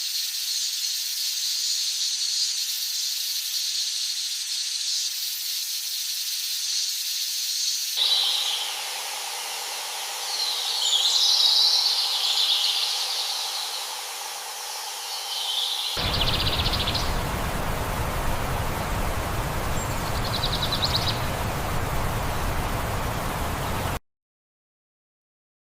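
Spliced outdoor nature ambience that changes abruptly every eight seconds. First comes a steady high hiss, then chirping calls over it, then a broad rushing noise; it cuts off to silence shortly before the end.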